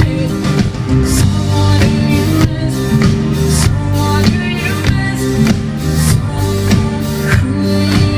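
Live rock band playing a song on a large outdoor stage sound system: electric guitar, bass and drum kit with a steady beat, with a little singing.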